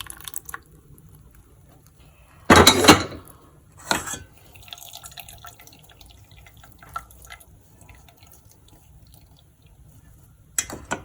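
Blended tomato soup being poured into a strainer, with a loud splash about two and a half seconds in and a smaller one about a second later, then faint dripping and trickling of liquid through the mesh. A short clatter comes near the end.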